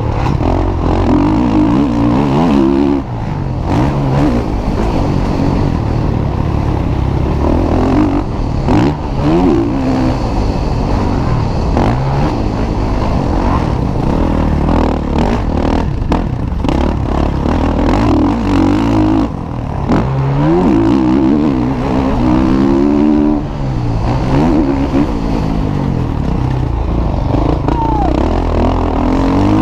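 Motocross bikes racing on a dirt track, their engines revving up and falling away again and again as the riders accelerate and change gear.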